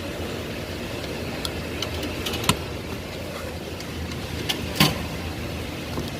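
Sharp clicks and knocks of plastic parts and wiring connectors being handled while a car's steering column is taken apart, about eight of them, the loudest about two and a half seconds in and near five seconds, over a steady low hum.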